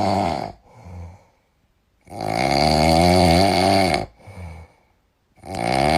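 A dog snoring loudly in long, rasping snores, each about two seconds, one every three to four seconds.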